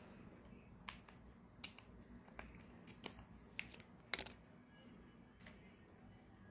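Scattered sharp clicks and rattles from a container of cat treats being shaken, the loudest a double click about four seconds in.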